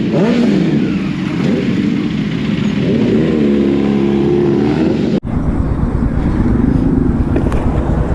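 Sportbike engine and exhaust running at speed, the revs dropping and then climbing again, with wind noise. The sound cuts out abruptly about five seconds in and picks up again straight away.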